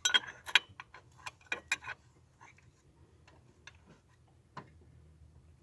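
A quick run of sharp metallic clicks and clinks in the first two seconds, then a few scattered single clicks: metal parts and hand tools being handled while test-fitting a turbo wastegate in an engine bay.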